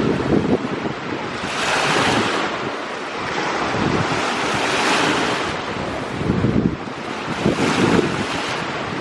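Sea waves washing in and breaking on the shore, the surf swelling and fading every couple of seconds, with wind gusting on the microphone.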